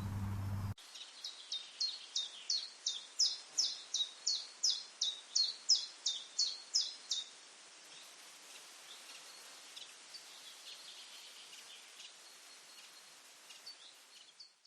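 A bird calling from the undergrowth in a fast series of about eighteen sharp, high, falling notes, about three a second, growing louder and then stopping about seven seconds in. Fainter chirps follow over a light hiss. A low hum cuts off within the first second.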